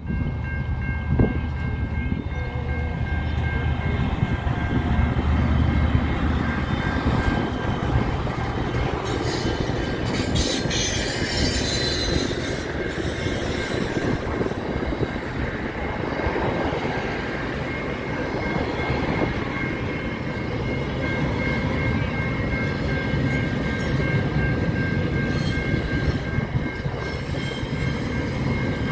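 Long SCT freight train passing close by at a level crossing. A heavy low rumble in the first several seconds gives way to the steady rumble and clatter of a long rake of wagons rolling past, with a steady high-pitched tone over it.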